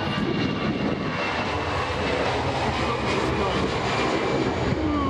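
Airbus A320 jet engines running steadily at takeoff thrust as the airliner takes off.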